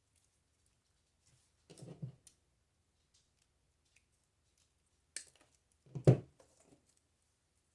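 Hands handling artificial flowers and craft materials on a worktable. There is a short rustle about two seconds in, a sharp click a little after five seconds, and a louder knock of something set down at about six seconds.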